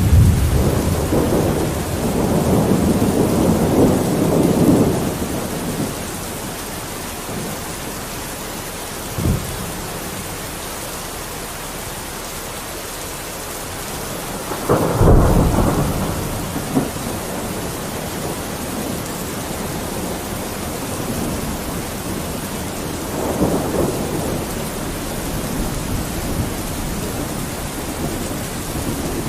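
Steady rain with thunder rumbling: a long rolling rumble at the start, a brief thump about a third of the way in, a sharper clap about halfway that rolls on for a couple of seconds, and a softer rumble near the end.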